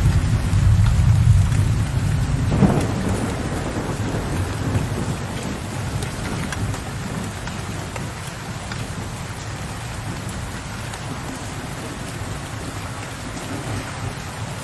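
Thunderstorm: steady rain with low thunder rumbling. There is a sharper crack about two and a half seconds in, and then the rumble fades away, leaving the even hiss of the rain.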